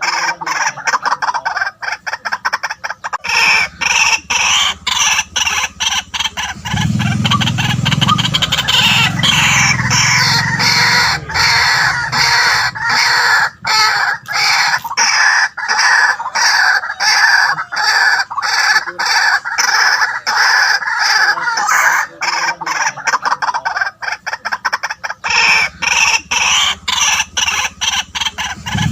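White-breasted waterhen calling: a loud, unbroken run of rapidly repeated harsh croaking notes, the kind of call played as a lure for the bird.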